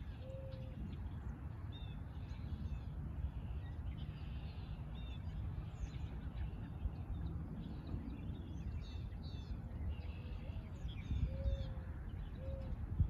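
Outdoor birds chirping and calling, many short high chirps, with a short low note repeated several times near the end, over a steady low rumble.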